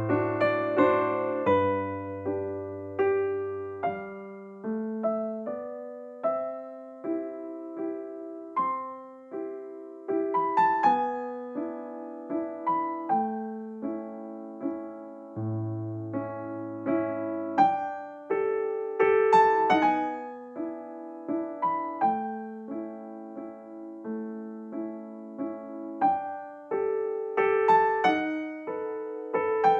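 Background music: a slow, gentle piano melody over sustained low notes.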